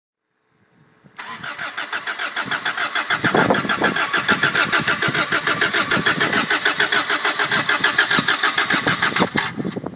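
Rebuilt Toyota 4A-GE engine being cranked over on its starter motor with a steady rhythm of about five pulses a second, without catching: the no-spark, won't-start fault. The cranking stops abruptly near the end, with a sharp knock.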